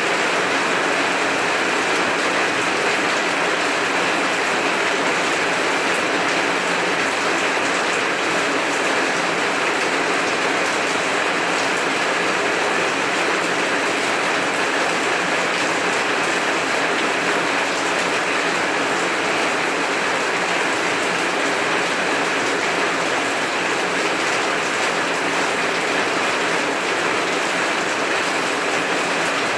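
Heavy rain falling steadily, an even, unbroken hiss of rain with no thunder.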